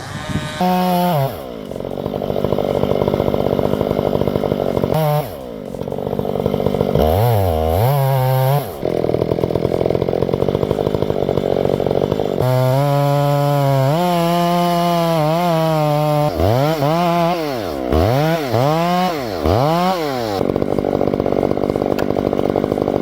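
Two-stroke chainsaw engine revving up and dropping back again and again, its pitch rising and falling. There is a long stretch held at high revs midway, then several quick dips and recoveries near the end.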